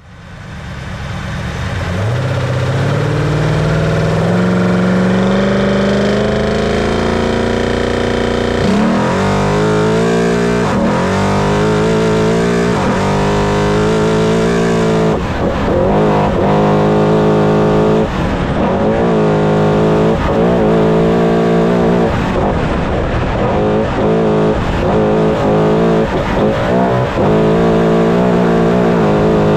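Trophy Truck's race engine at full throttle, fading in at the start and climbing steadily in pitch for several seconds. From about nine seconds in, it revs up and drops back in quick repeated swings.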